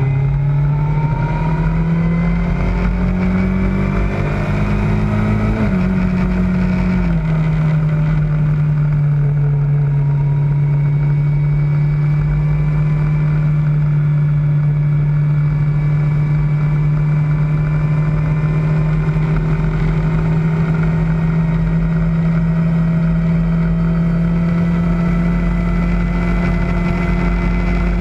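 Kawasaki ZZR600's inline-four engine accelerating with a rising pitch, changing up twice about six and seven seconds in, then holding a steady cruise over a constant low rush of wind and road noise.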